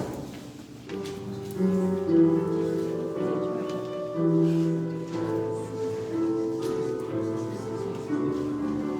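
Church hymn music starting about a second in: held, steady chords moving from note to note at a slow hymn pace.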